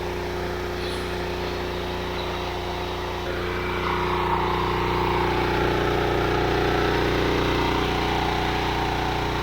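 Gas engine of a Predator commercial-duty pressure washer running steadily, with the hiss of its high-pressure spray joining about three seconds in.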